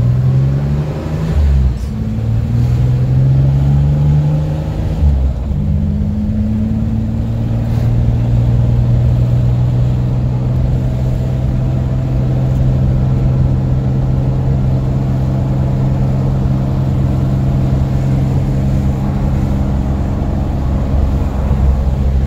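1963 Chevrolet Corvair Monza Spyder's turbocharged air-cooled flat-six pulling the car away, heard from inside the cabin. The engine pitch climbs, falls back at a gear change about a second and a half in, climbs again and falls at a second change around five seconds in, then holds steady at cruise.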